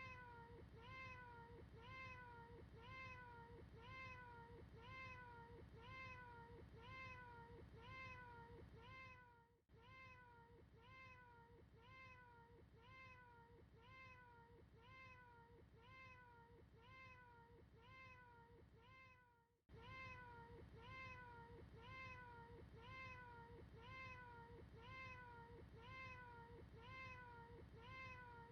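Faint cat meows repeated over and over, about two short rising-and-falling meows a second: one short recorded cat noise looped without a break, with a brief dropout about every ten seconds where the loop restarts.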